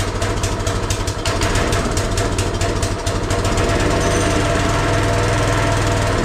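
Coleman mini bike's small single-cylinder four-stroke engine running steadily with a fast, even rapping beat, on choke just after its carburetor was cleaned.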